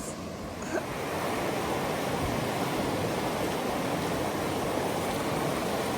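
Steady rush of ocean surf on the beach, growing a little louder about a second in.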